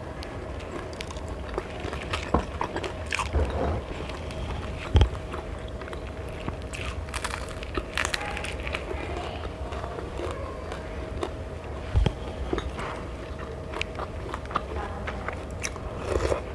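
Close-miked eating: irregular crunching bites and chewing with scattered small clicks, over a faint steady hum. There are two louder knocks, about five seconds in and near twelve seconds.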